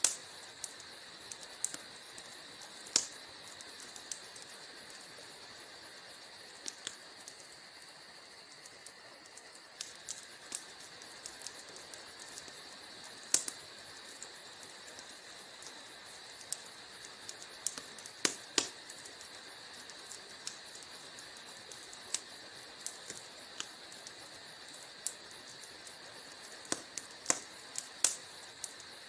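Wood fire crackling in a fireplace: irregular sharp pops and snaps, a handful louder than the rest, over a faint steady hiss.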